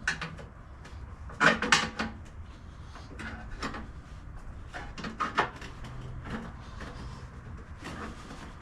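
Irregular knocks and clunks of hand tools and metal parts being handled while an MTD snowblower is taken apart, loudest twice about one and a half seconds in and twice more around five seconds.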